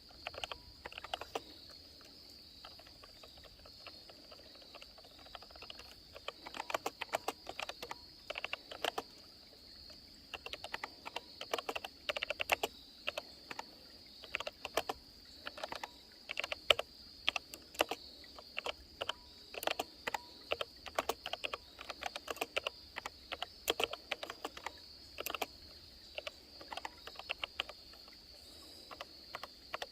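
Typing on a Freewrite Alpha keyboard: irregular runs of quick key clicks broken by short pauses. Behind it runs the steady high buzz of insects.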